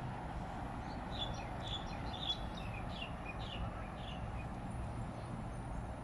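A bird calling: a run of short, high chirps, several of them falling in pitch, over a steady low hum of distant traffic.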